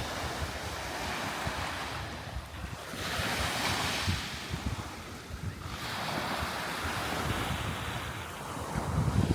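Sea waves washing onto the shore, the surf swelling twice, with wind gusting on the microphone, strongest at the start and near the end.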